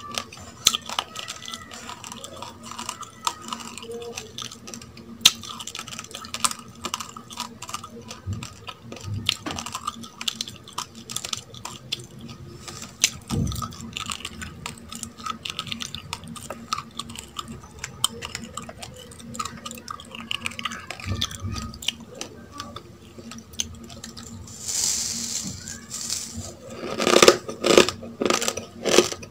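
Mouthful of raw uncooked rice grains being chewed: a steady run of small crunches and clicks, with louder, denser crunching near the end.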